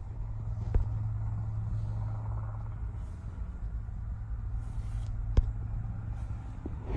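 1974 Volkswagen Super Beetle's air-cooled flat-four running as a steady low hum, with two sharp knocks, one near the start and one past the middle.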